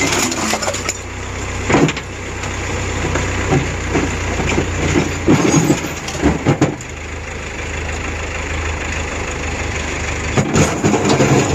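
Saturn single-overhead-cam four-cylinder engine running with a steady low hum, with scattered knocks and rattles, the loudest about five to seven seconds in.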